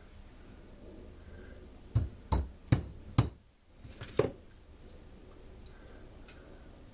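Five sharp knocks of parts or tools being handled during a chainsaw rebuild: four in quick succession about two seconds in, then one more a second later.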